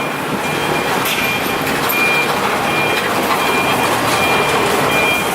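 Shangchai diesel generator set running with a loud, steady noise. A short electronic beep repeats a little more than once a second on top of it.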